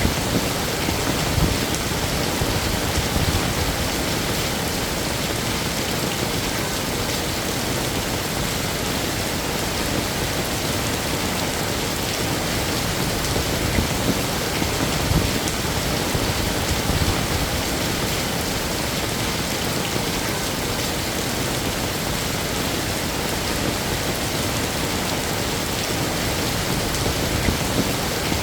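Heavy rain falling steadily on hard surfaces, a dense even hiss with scattered louder drops.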